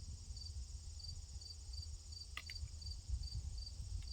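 Crickets chirping in a steady pulse, about two or three chirps a second, over a continuous high insect drone. A couple of short clicks come a little past halfway.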